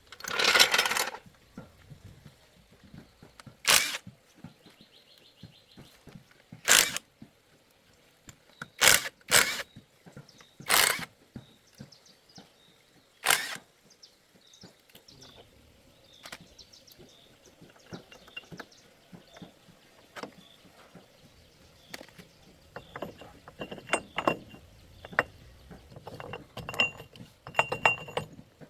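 Metal tools and parts clanking: a series of separate sharp knocks and clinks, with a faint metallic ring among the last few.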